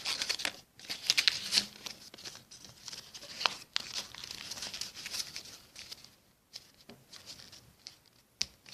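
Sheet of notepad paper rustling and crinkling as it is folded and opened out by hand, in bursts of irregular crackles that die away in the last few seconds.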